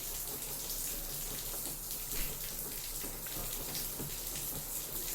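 LG 6 kg front-loading washing machine mid-wash: water and clothes sloshing and splashing in the turning drum, over a steady low hum.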